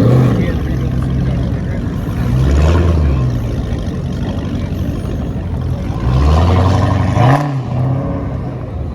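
A car engine being revved in three bursts, each rising and falling in pitch: one at the start, one about two and a half seconds in, and a longer one about six seconds in that cuts off sharply.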